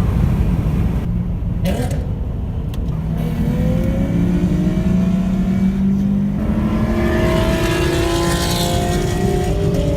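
Cars street racing on a highway, their engines accelerating hard over a steady low rumble. The engine notes climb slowly in pitch, and the sound grows louder and brighter in the second half as the cars pass.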